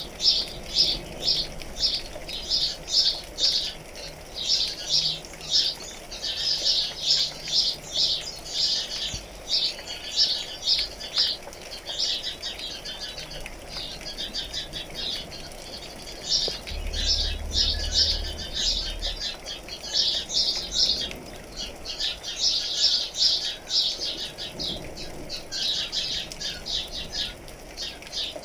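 Birds chirping rapidly and repeatedly: many short, high-pitched chirps, several a second, coming in clusters. Under them runs a soft steady hiss of rain, with a brief low rumble about seventeen seconds in.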